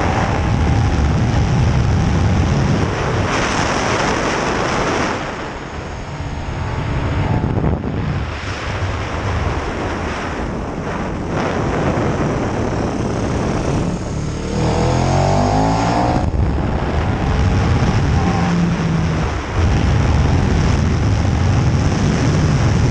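KTM 1290 Super Duke R's V-twin engine at track speed, heard on board with heavy wind rush. The engine eases off about five seconds in, then revs rise sharply around the fourteen-second mark as it accelerates hard.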